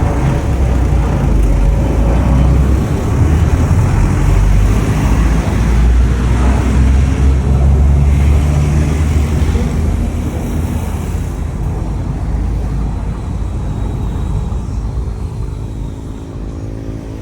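Jet airliner engines giving a loud, deep rumble that holds for about ten seconds and then slowly fades away.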